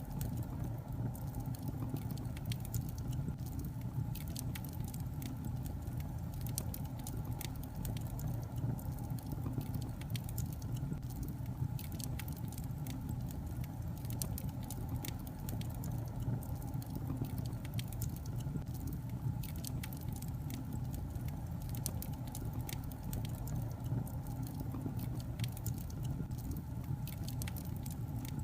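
Wood logs burning in a fireplace, crackling with frequent irregular pops and snaps over a steady low rumble of the fire.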